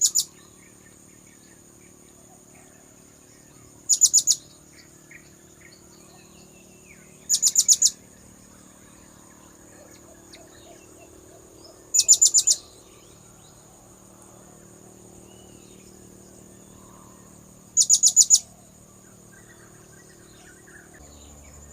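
Blue-crowned hanging parrot (serindit) lure calls: short bursts of rapid, very high-pitched chirps, each about half a second long, repeated five times at intervals of about four to six seconds. A faint steady high whine runs underneath.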